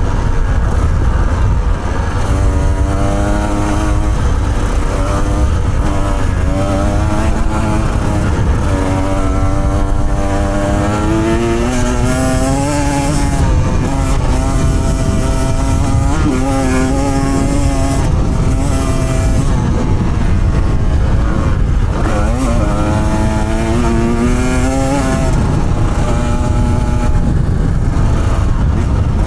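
Off-road motorcycle engine under way, its pitch climbing and dropping again and again with throttle and gear changes over a steady low rumble.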